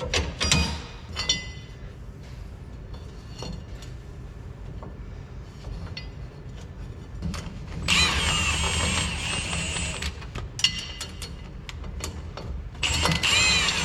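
A power tool spinning the U-bolt nuts down on a truck's rear leaf-spring lift blocks: two runs, the first about two seconds long and the second about a second, with a wavering whine. Before them come scattered metal clinks and knocks as parts are handled.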